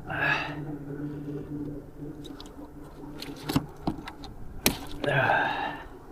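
Sharp knocks and clicks of fish and tackle being handled on a kayak, over a steady low hum. Two short rustling bursts come at the start and again about five seconds in.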